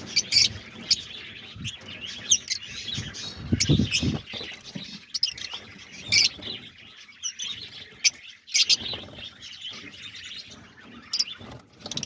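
A flock of lovebirds chirping, many short, sharp, high calls, with a brief low rustle about four seconds in.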